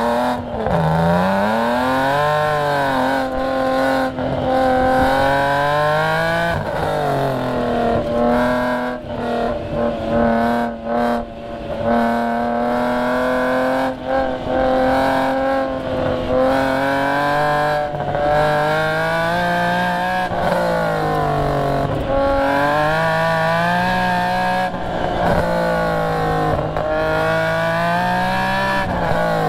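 BMW coupe's engine heard from inside the cabin during a hard autocross run, its pitch climbing under full throttle and dropping again many times as the driver accelerates between cones and lifts or brakes for the turns.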